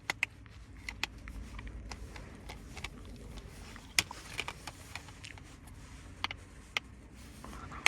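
A plastic disc case being handled, giving scattered light clicks and faint rustling over a low steady hum.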